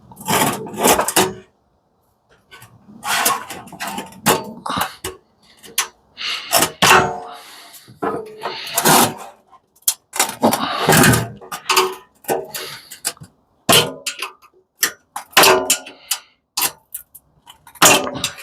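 Irregular metal clanks and rattles from steel and sheet-metal parts of an industrial coffee machine being taken apart and knocked together, some strikes ringing briefly.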